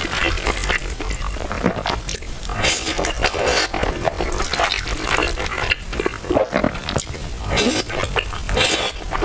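A person eating, with wet chewing and lip-smacking mouth sounds in irregular bursts.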